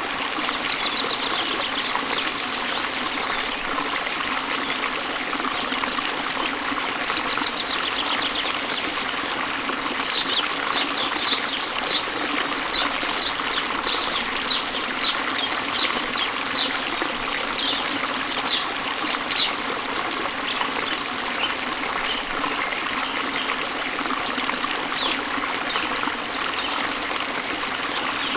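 Waterfall water running in a steady rush, with a bird repeating a short high chirp about twice a second for roughly ten seconds in the middle, and a few scattered chirps elsewhere.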